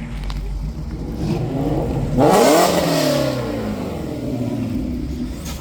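Car engine revved once: it idles, climbs quickly in pitch to a loud peak, then winds back down to idle.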